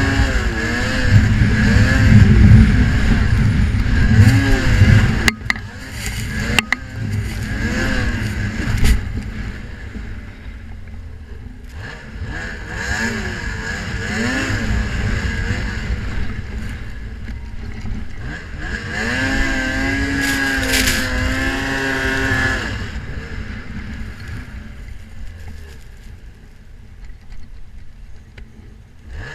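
Snowmobile engine revving up and down as the sled is ridden, with heavy wind rumble on the microphone in the first few seconds and two sharp knocks around five and seven seconds in; the engine revs up hard about two-thirds of the way through.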